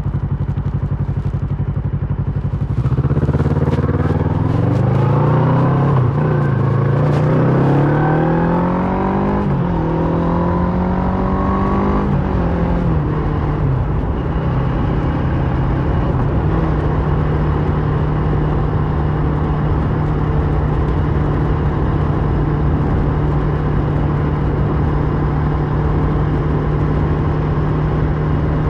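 Kawasaki Versys 650's parallel-twin engine through a Mivv slip-on exhaust. It runs steadily at low revs, then about three seconds in it accelerates hard, the pitch rising and dropping back with each of several gear changes. About halfway through it settles into a steady cruise.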